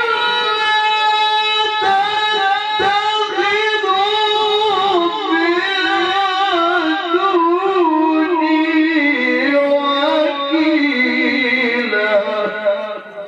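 A male qari's solo voice in melodic Quran recitation (tilawah), drawing out one long phrase in a high register with quick ornamental turns and wavering. The melody steps down to a lower pitch in the second half and the voice fades out near the end.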